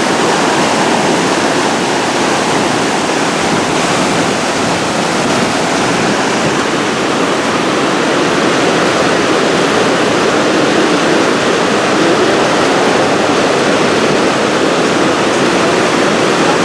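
Floodwater pouring over a mill dam, a loud, steady rushing roar of high water.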